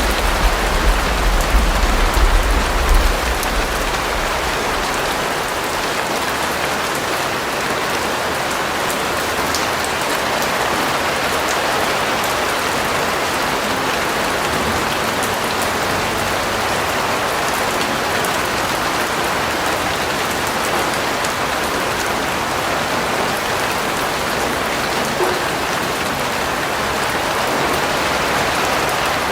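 Steady, dense rain falling on surfaces, an even hiss. A low rumble dies away in the first few seconds.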